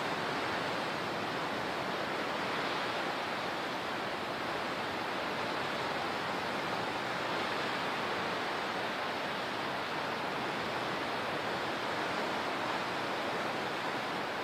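Steady rushing water, an even hiss that does not rise or fall.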